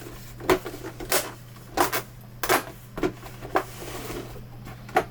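Plastic snap-fit clips of a monitor's back cover clicking into place one after another along its bottom edge, about seven sharp clicks spaced irregularly, over a steady low hum.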